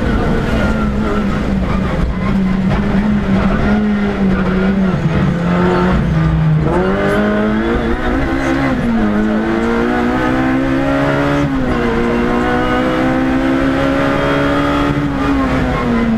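Rally car engine heard from inside the cockpit under hard acceleration on a stage. Its pitch climbs and drops as the driver lifts and changes gear: a sharp rise about halfway through, a drop followed by a steady climb after that, and another dip near the end.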